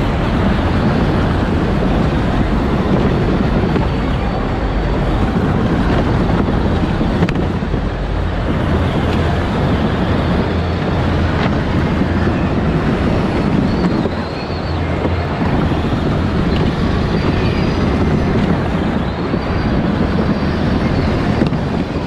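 Power Wheels ride-on car driving steadily: a continuous motor and drivetrain noise that dips briefly about two-thirds of the way through.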